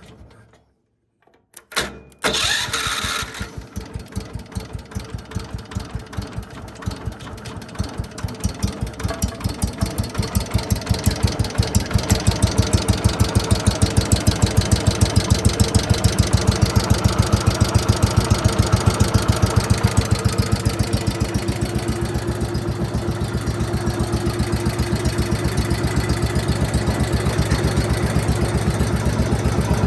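John Deere 110 lawn tractor's single-cylinder engine goes quiet, is started again about two seconds in and catches, running with a distinct firing beat that picks up to a steady, faster run after about ten seconds.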